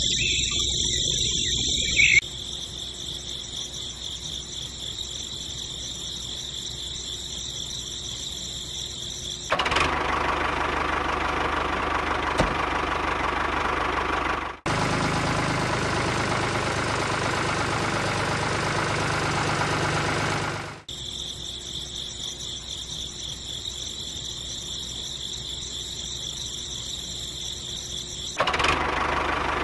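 A small mini-tractor-style motor running a small flour mill steadily. It is heard as several spliced clips that switch abruptly between a quieter whine and a louder grinding noise.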